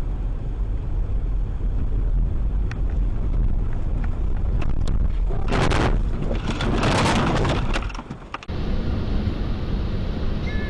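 Car driving noise, a steady low road and engine rumble, with scattered sharp knocks and two loud noisy bursts about five and a half to seven and a half seconds in. The sound changes abruptly about eight and a half seconds in, to another steady vehicle rumble.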